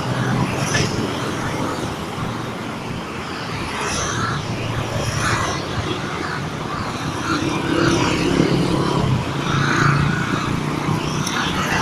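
Train running with a steady low mechanical hum.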